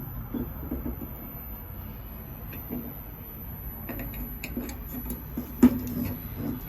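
Scattered light clicks and knocks, the sharpest about two-thirds of the way through, over a steady low hum.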